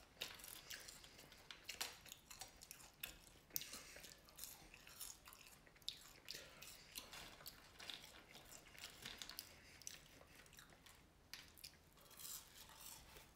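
Faint chewing and crunching of fried catfish nuggets and fries, with irregular small crackles and mouth clicks.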